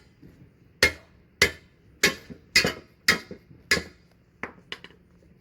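Hammer striking a punch, metal on metal, driving an old bushing out of a leaf spring eye: about six sharp blows roughly half a second apart, then three lighter taps near the end.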